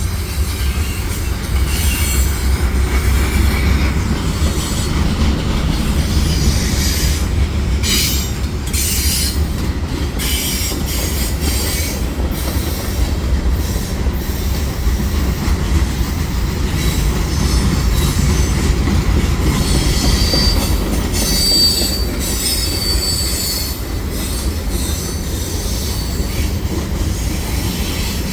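Freight cars of a CN mixed manifest train rolling steadily through a tight curve, a continuous low rumble of wheels on rail. High-pitched wheel squeal from the curve rises over it about two-thirds of the way in.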